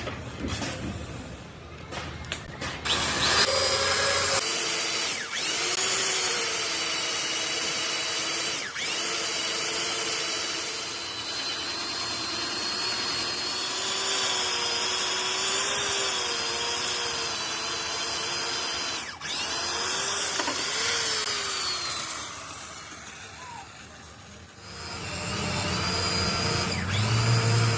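Electric power tool motor running with a steady whine, its pitch sagging and recovering as it works against the metal, with a few brief breaks and a quieter spell near the end.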